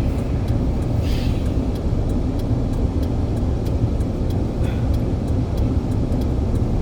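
Steady low rumble of a moving vehicle, with faint light ticks now and then.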